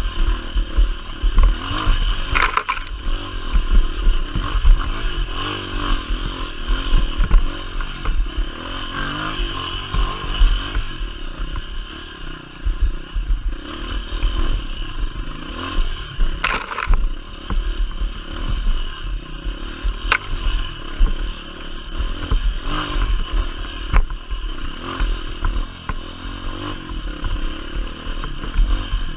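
Motorcycle engine running steadily under way, with a few sharp knocks and rattles.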